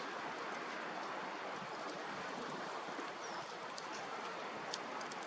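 Bonfire burning with a steady rushing, and a few sharp crackles and pops near the end.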